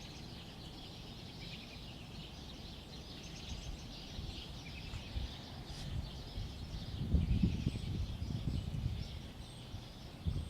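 Several songbirds singing and chirping at once, a steady chorus of short high chirps and trills. A low rumble comes in about two-thirds of the way through and lasts a couple of seconds.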